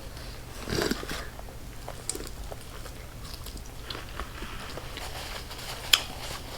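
A person biting and chewing a chicken wing dipped in ranch, with small wet mouth clicks and a sharp click about six seconds in.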